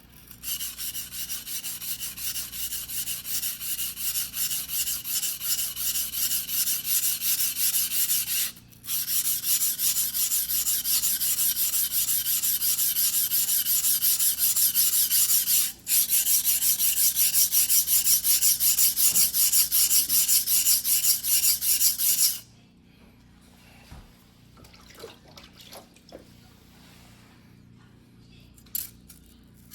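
Single-bevel fugu-hiki sashimi knife being stroked rapidly back and forth on a wet whetstone by hand, an even rasping scrape. It pauses briefly twice and stops a little past two-thirds of the way through, leaving only a few faint knocks.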